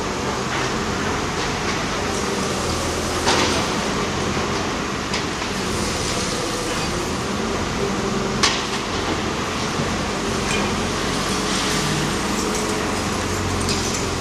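Diesel engine of a wheeled hydraulic grab machine running steadily, with two sharp metal clanks about five seconds apart.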